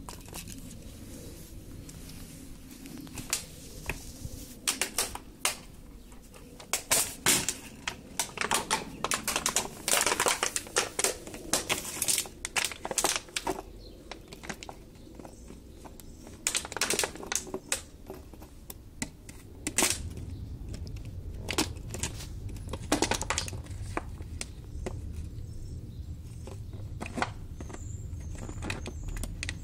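A dog chewing and batting a plastic bottle: irregular crackles and sharp clicks coming in bursts, with quieter stretches between.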